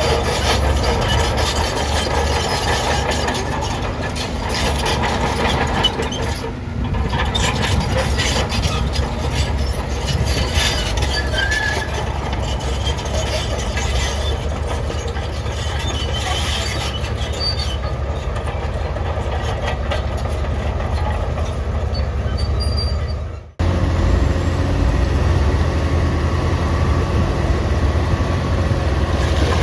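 Crawler bulldozer at work: the diesel engine running under load with a dense clanking and squealing of steel tracks. The sound cuts off sharply about three quarters of the way through and resumes with a heavier low engine sound.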